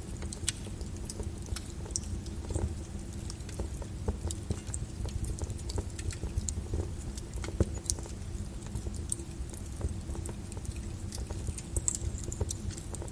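Rain on a window mixed with a crackling wood fire: a steady hiss and low rumble under frequent small, sharp pops and ticks.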